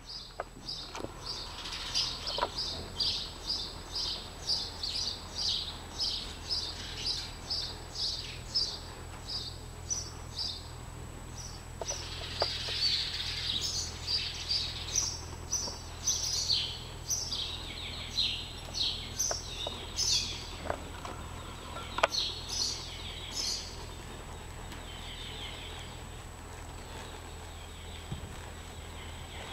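Small birds chirping over and over, a few short high chirps a second, over a steady low hum; the chirping thins out near the end.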